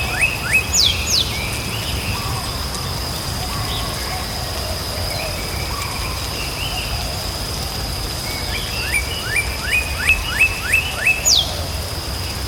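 Birds chirping in a quick run of rising notes about a second in and again from about nine to eleven seconds in, each run followed by one or two falling whistles. A steady high-pitched tone and a low rumbling background noise run underneath.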